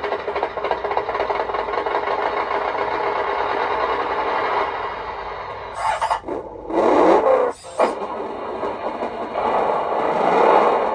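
Simulated truck engine sound played through an RC sound module's small speaker during engine-volume adjustment. It runs steadily, then about six seconds in it cuts out briefly and comes back louder, and it does so again near the end.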